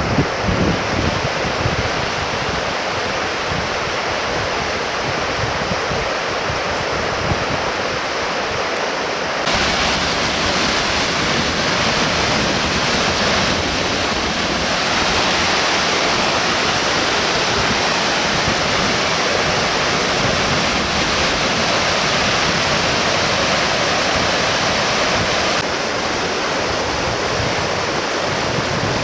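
Ryumon Falls' water pouring and splashing in a steady rush. It steps up in level about a third of the way in and eases back a little near the end.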